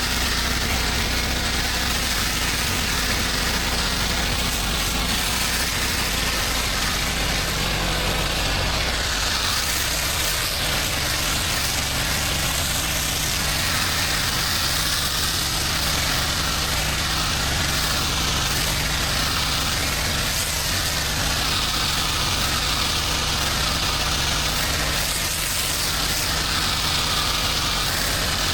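Pressure-washing rig's engine running steadily, with an even hiss over it.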